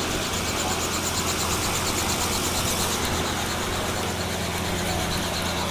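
An engine running steadily: a constant low hum under loud hiss that pulses quickly and evenly.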